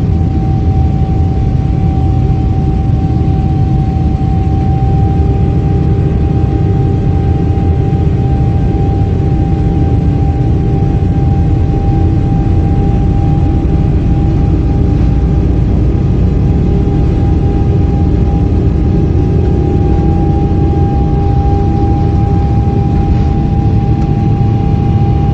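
Aeroplane engines running at high power: a loud, steady low rumble with a single steady whine over it, typical of an aeroplane speeding up for take-off.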